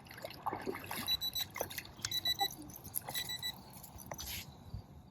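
Three short electronic beeps, about one a second, over faint clicks and rattles.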